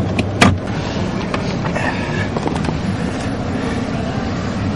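A car engine idling steadily, heard around the car, with one sharp knock about half a second in and a few lighter clicks after it.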